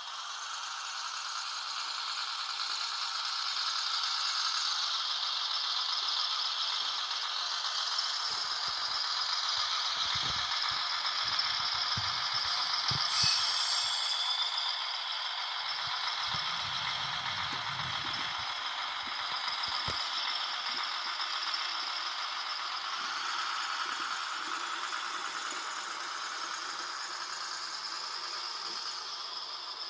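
Viessmann H0-scale Robel track vehicle model giving off a steady, rattling mechanical noise, with a few soft knocks in the middle.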